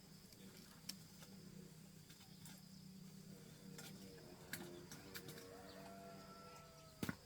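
Quiet background with faint bird calls over a low steady hum, a few light clicks, and one sharp knock near the end.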